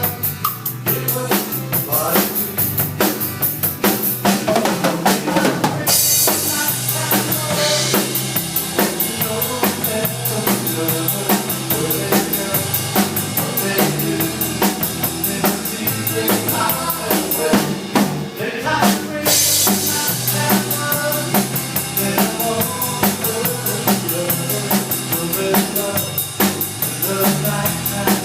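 Band music with a full drum kit playing a steady beat, with kick, snare and rimshots. The texture changes about six seconds in, and there is a brief break in the high end near the eighteen-second mark.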